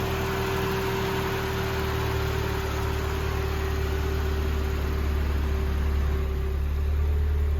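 1991 Mazda Miata's 1.6-litre twin-cam four-cylinder engine idling steadily, with an even hum throughout.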